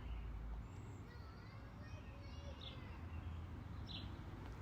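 Faint background ambience: a steady low hum with a few faint, short bird chirps.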